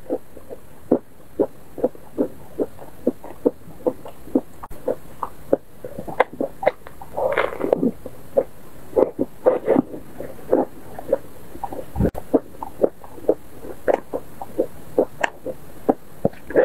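Close-up eating sounds of a stuffed pancake: a steady run of short wet chewing clicks and smacks, about two or three a second, with a longer, louder crunchy bite about halfway through.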